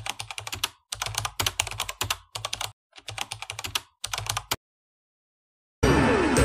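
Computer-keyboard typing clicks, fast keystrokes in about five short runs matching text typed out on screen. They stop for about a second, and music begins near the end.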